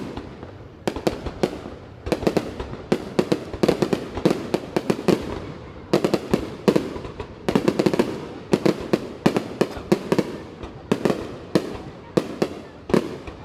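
Fireworks display: rapid volleys of bangs from bursting shells, several a second, coming in clusters with short lulls between them.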